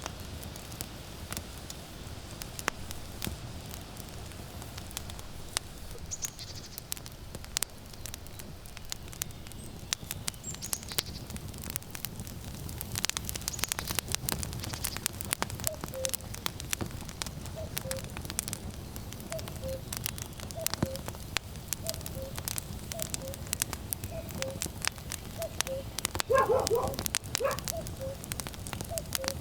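Firewood crackling and popping as it burns in a campfire. About halfway through, a common cuckoo begins calling its two-note falling 'cuck-oo' over and over, and a short louder animal call sounds near the end.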